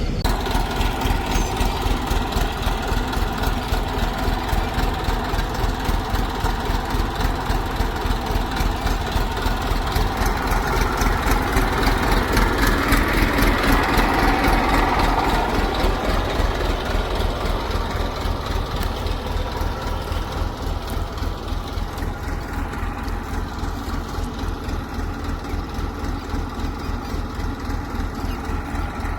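Heavy diesel machinery engine running steadily with an even pulsing beat. It grows louder for a few seconds around the middle, then settles back.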